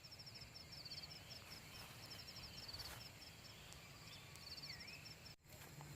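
Faint forest ambience with birds chirping in rapid, high repeated notes, one short curved whistle near the end. The sound briefly drops out about five seconds in.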